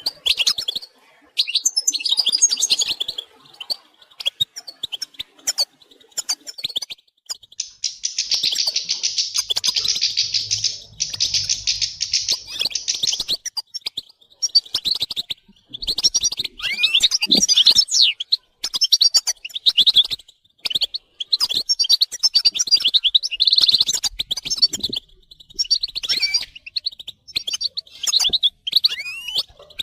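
European goldfinches twittering, a chorus of quick high chirps and warbling calls, with a dense unbroken run of rapid notes from about 8 to 13 seconds in. These are the goldfinch's mating and readiness calls, used to stir a silent male into song.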